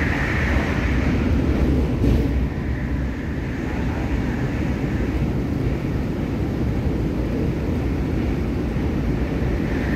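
MTR K-Train electric multiple unit running, heard from on board: a steady rumble of wheels on rail with a single sharp knock about two seconds in, and a higher hiss that fades over the first second and comes back near the end.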